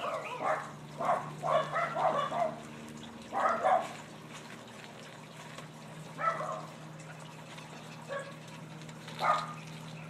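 A dog yipping and barking in short pitched calls: a quick cluster in the first few seconds, then single calls about six, eight and nine seconds in.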